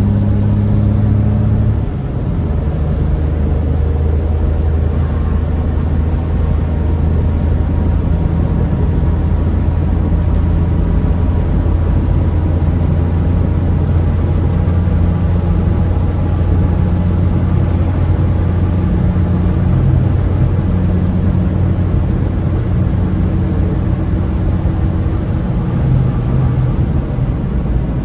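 Car driving, heard from inside the cabin: a steady engine hum over road noise, the engine note dropping about two seconds in, as at a gear change.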